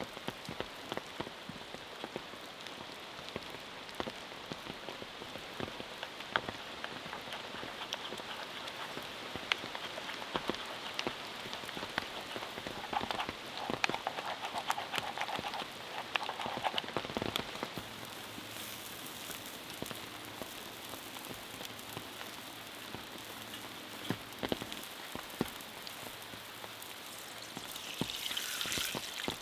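Rain falling steadily, with drops tapping in many small, irregular clicks.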